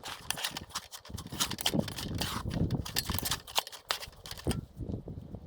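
Pizza dough being stirred and mixed in a bowl: a utensil scrapes and knocks against the bowl in quick, irregular clicks and taps that ease off near the end.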